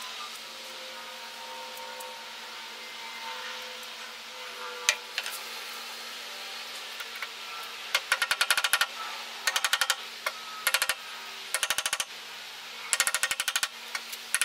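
Bursts of rapid, sharp hammer-like strikes, about ten a second, in groups starting about halfway through, over a steady low hum.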